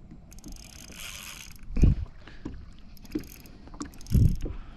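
Knocks and handling noise aboard a small plastic kayak: a brief hissing rush, then two dull thumps about two seconds apart, with a few light clicks.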